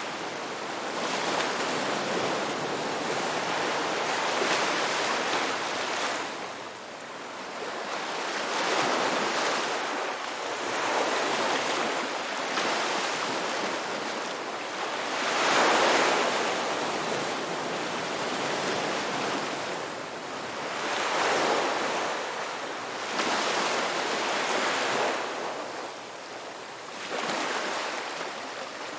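Ocean waves breaking and washing up the beach, swelling and fading every few seconds, with the biggest surge about halfway through.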